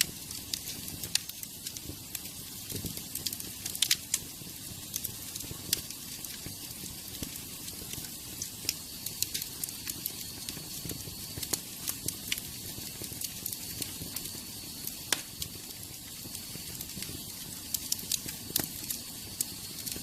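Wood fire burning in a fireplace: a steady hiss with frequent irregular crackles and sharp pops, a few of them louder.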